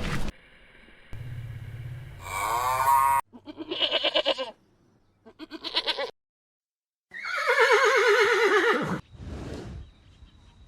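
Goats bleating: a run of separate quavering bleats, cut one after another with short silent gaps, the longest and loudest about two-thirds of the way in.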